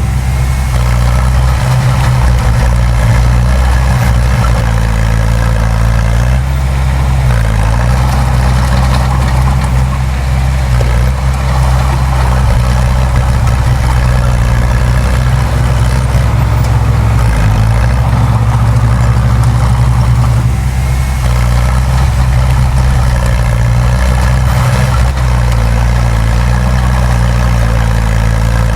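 Diesel engine of heavy earthmoving machinery running steadily, its pitch shifting slightly a few times as the load changes.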